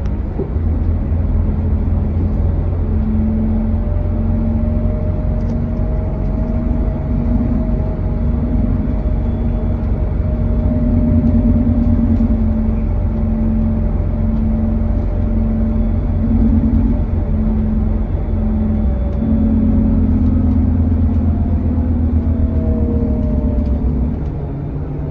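Scania K320HB bus's diesel engine and drivetrain running as the bus drives along, a steady low drone with a pitched hum that comes and goes and a few swells as the engine works harder.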